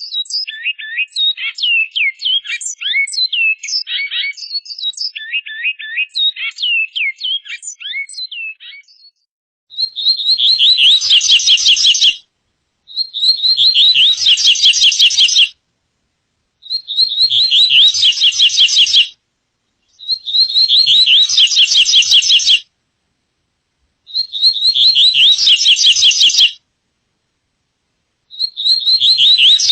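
Songbird song. First comes a varied song of quick high notes. After a short pause, one fast, rapid-note song phrase repeats about six times, each bout two to three seconds long with a pause of about a second between them.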